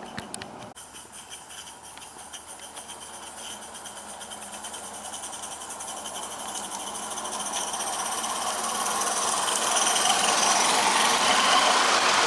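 G scale live steam locomotive chuffing with a quick, even exhaust beat and hiss, growing steadily louder.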